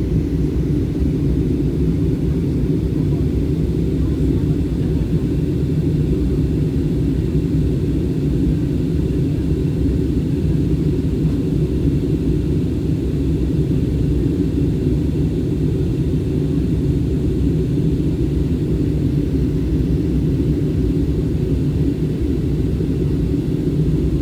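Steady low rumble of an airliner's engines and airflow heard inside the passenger cabin in flight, unchanging throughout.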